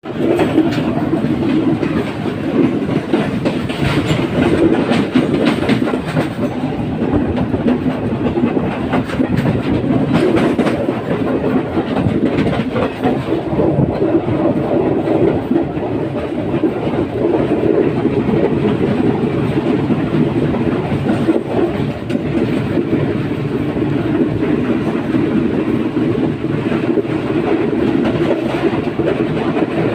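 Train running along the track, a steady rumble with its wheels clacking over the rail joints, the clacks thickest in the first ten seconds or so.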